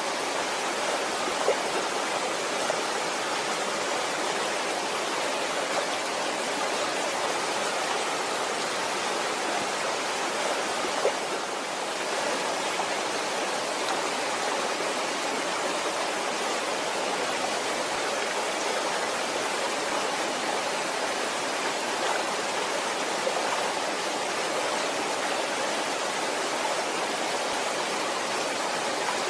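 Waterfall rushing steadily, an even hiss of falling water with a few faint splashes.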